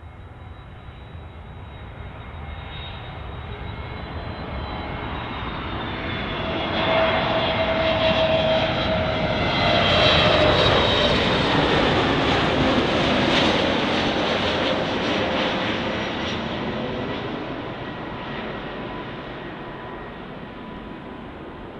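Jet airliner passing close by on the runway: the engine noise builds to a peak about halfway through and then fades, with a whine that falls in pitch as it goes past.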